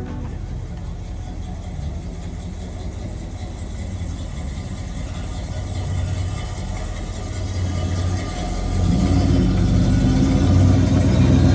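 A car engine running at a steady idle, growing louder and fuller about eight and a half seconds in.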